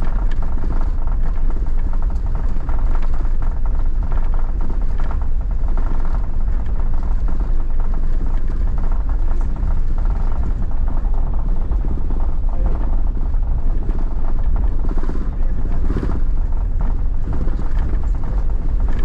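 Steady low rumble of a car driving, heard from inside the cabin, with a voice faintly mixed in.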